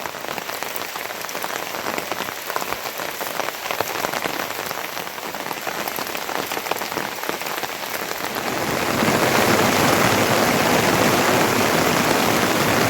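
Heavy rain falling, with many separate drop impacts heard through a steady hiss. About two-thirds of the way through, the rain grows louder and denser into a fuller, even downpour.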